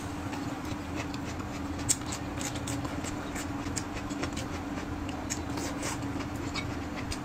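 Close-miked chewing of a mouthful of soft stir-fried red pepper: irregular mouth clicks and smacks, several a second, over a steady low hum.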